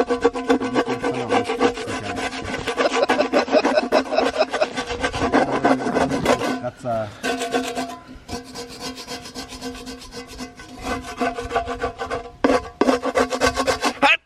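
Burnt food being scraped out of a pan with rapid back-and-forth strokes, the metal ringing under them. The scraping eases off about halfway through, then picks up hard again near the end.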